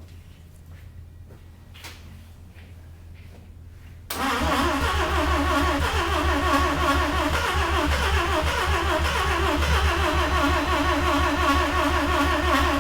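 Starter cranking the 1982 Mazda RX-7's carbureted 12A rotary engine, beginning suddenly about four seconds in and going on steadily and evenly pulsing, an attempt to start a long-sitting engine that is not yet running.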